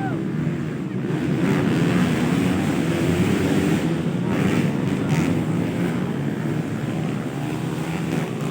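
Motocross dirt bikes racing, their engines running hard at high revs, with the sound swelling about a second in.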